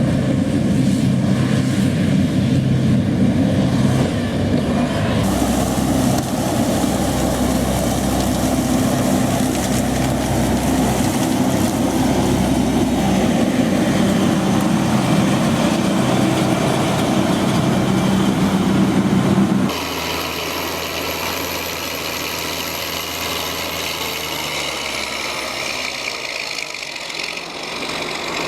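Heavy farm machinery engine running steadily. About 20 s in it cuts abruptly to a quieter machine with a thin high whine, which slides down in pitch near the end.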